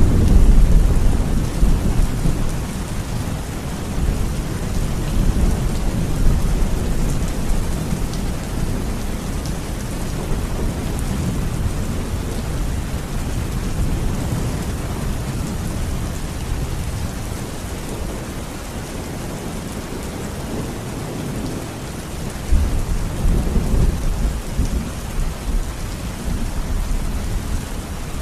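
Heavy rain falling steadily with thunder rumbling, loudest at the start and again about three-quarters of the way through.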